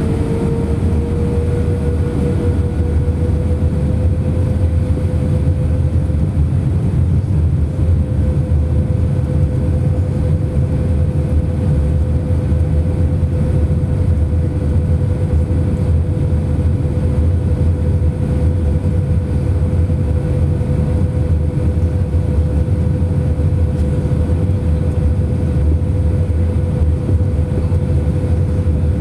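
Airbus A319 airliner cabin noise on final approach: a steady deep rumble of airflow and engines, with a steady engine whine that rises slightly in pitch over the first few seconds and then holds.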